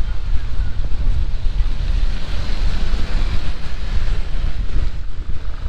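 Heavy rain pouring, with strong wind buffeting the microphone in a deep rumble under the rain's hiss; the hiss swells for a couple of seconds mid-way.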